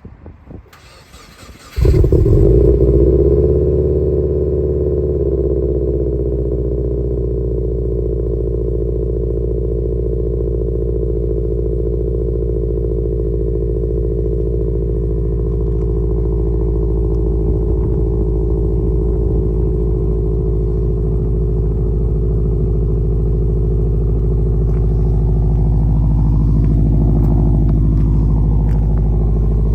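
2013 Subaru Impreza WRX's turbocharged 2.5-litre flat-four engine cold-started: a second or so of the starter cranking, then the engine catches about two seconds in with a brief flare in revs and settles within a few seconds into a steady idle.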